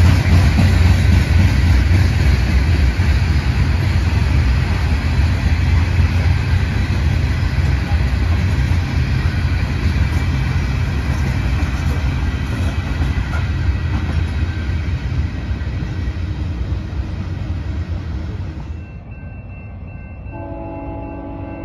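Passing train: heavy low rumble and rail noise, slowly fading. It cuts off abruptly near the end, and a steady chord of several tones begins.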